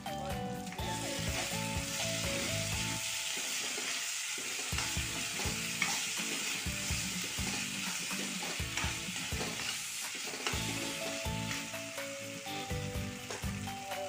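Onions and capsicum sizzling and frying in oil in a wok as a spatula stirs them, a dense hiss that starts about a second in. Soft background music plays over it at the start and again near the end.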